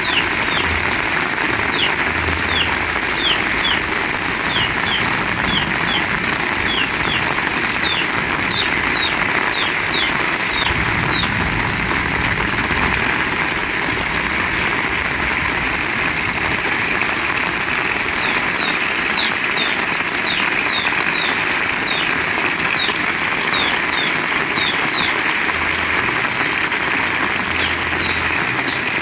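Heavy rain pouring steadily. Over it, a small animal repeats a short, high, falling chirp about twice a second, for roughly the first ten seconds and again in the last third.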